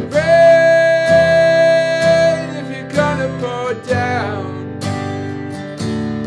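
Martin GPCPA4 acoustic guitar improvising a lead line over a looped, strummed chord pattern from a looper pedal. A long held high note near the start, then a few notes sliding downward.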